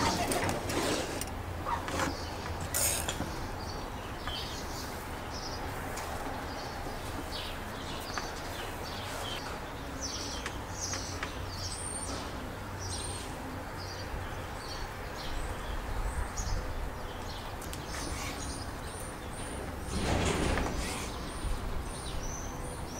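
Small birds chirping in short high calls over a steady outdoor background, with the calls coming in a quick repeated run near the end. A brief burst of soft rustling and handling noise comes near the end as soft dough is worked on a wooden board.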